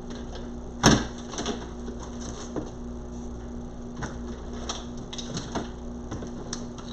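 Rummaging through craft supplies on a work table: a sharp knock about a second in, then scattered small clicks and rustles. A steady low hum runs beneath.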